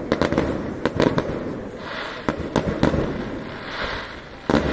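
Aerial fireworks bursting: a quick run of sharp bangs in clusters, with patches of fizzing crackle from crackling stars between them.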